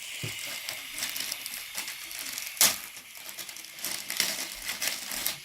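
Shaving foam sprayed from an aerosol can, a hiss over the first second or two, among crinkly, crackly handling sounds, with one sharp click about two and a half seconds in.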